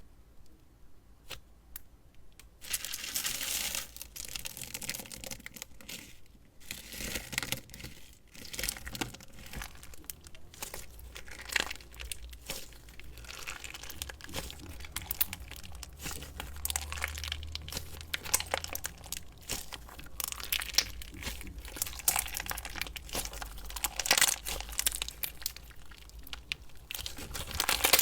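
Slime being worked by hand close to the microphone: a dense run of small crackles, pops and tearing sounds, starting after a quiet couple of seconds.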